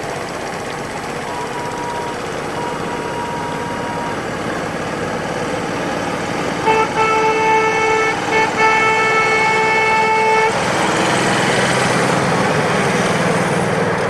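Miniature railway locomotive's whistle sounding in a short toot and then a long series of blasts, followed by a loud rushing hiss.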